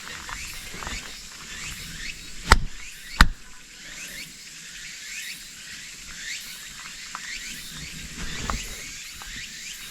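Outdoor ambience: many short falling chirps over a steady high-pitched hiss, broken by two sharp knocks about two and a half and three seconds in.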